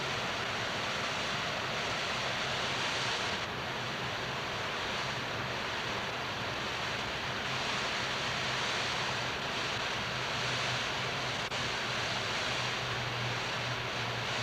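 Steady rushing noise like wind or surf, swelling and easing slowly, with a low hum beneath it.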